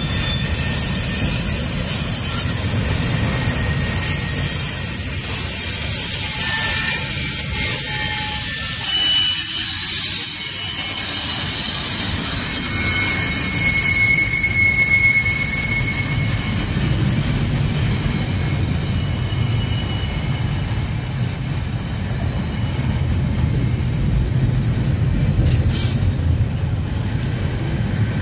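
Double-stack intermodal freight train's well cars rolling past: a steady rumble of steel wheels on rail, with thin high wheel squeals coming and going over it.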